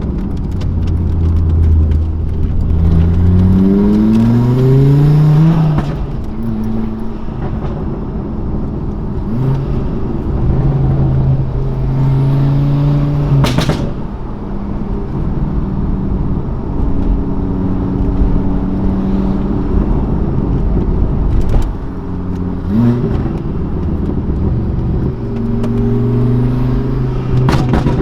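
Straight-piped exhaust of a Volvo S60R's 2.5-litre turbocharged five-cylinder. It accelerates hard with rising pitch through two gears a few seconds in, then runs at steadier engine speeds, with a few brief sharp sounds.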